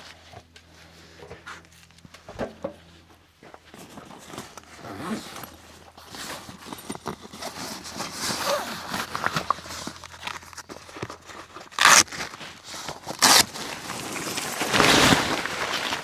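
Handling noises: rustling and crinkling with small clicks, two sharp loud knocks near the end, then a louder rustle.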